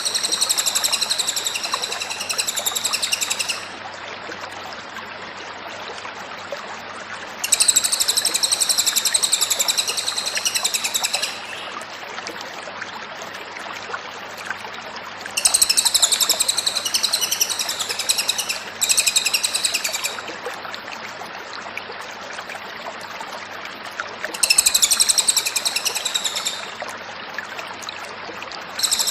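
Cililin songbird singing loud, high-pitched phrases of rapid repeated notes, each phrase about one to four seconds long, separated by pauses of a few seconds. A faint steady hum runs underneath.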